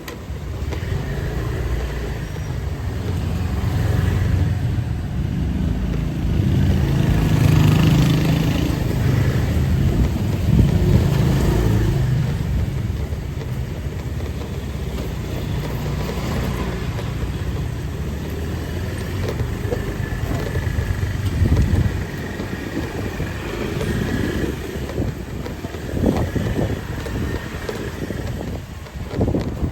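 Street traffic: motor vehicle engines passing close by over a steady street background, loudest in the first half.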